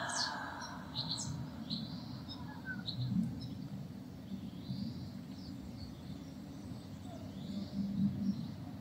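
Birds chirping faintly and intermittently in the distance, short high calls scattered throughout, over a steady low background hum.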